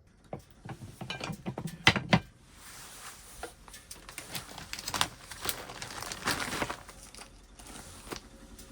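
Close handling sounds: crinkling and rustling, with a run of sharp clicks and knocks in the first two seconds.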